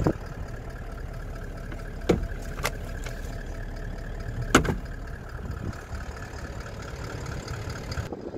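Toyota Land Cruiser pickup's engine idling steadily, heard inside the cab. A few sharp clicks break in over it; the loudest comes about four and a half seconds in.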